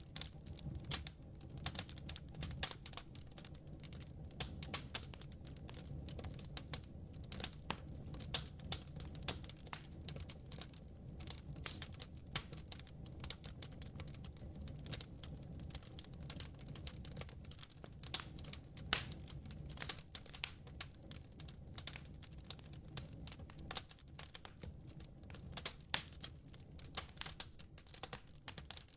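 Wood fire burning in a fireplace, crackling and popping with dense, irregular snaps over a low steady rumble.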